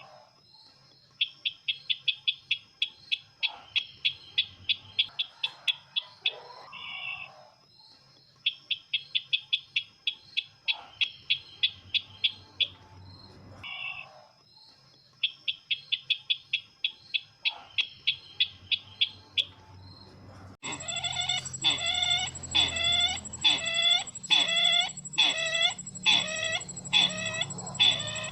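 Bird call played as a trapping lure: bursts of a rapid, even trill of short high chirps, about four a second, each burst several seconds long with pauses between. About twenty seconds in it switches abruptly to louder, slower repeated notes over a steady high whine.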